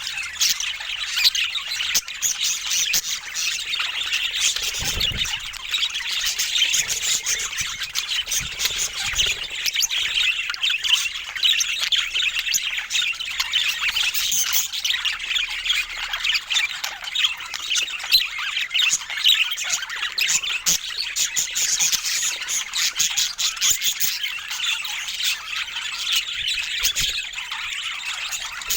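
Budgerigars chattering and chirping without a break, a dense run of rapid, overlapping high calls and squawks.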